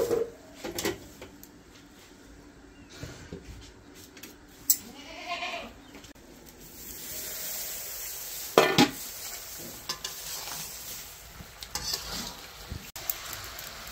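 Sliced vegetables sizzling in oil in an iron karahi on a clay wood-fired stove, with a steady sizzle from about halfway on, a metal spatula scraping and stirring, and a couple of loud clanks of metal pots and lids. Earlier, a livestock animal calls.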